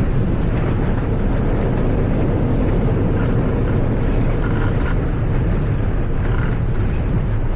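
Steady loud rumble on the flight deck of an Airbus A320 during the landing rollout just after touchdown.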